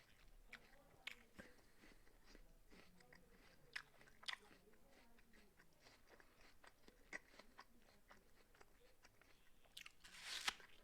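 A person chewing a crisp apple: quiet, irregular crunching, with a louder, longer crunch near the end.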